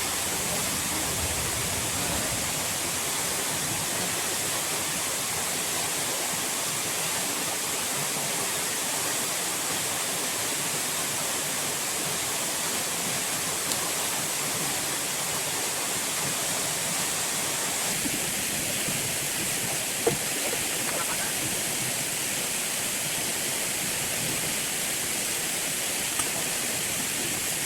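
Steady rush of falling water at the waterside, even and unbroken, with a few faint short knocks scattered through it.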